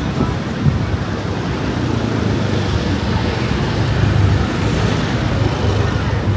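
Strong wind buffeting the microphone: a loud, steady rumbling noise that flutters irregularly.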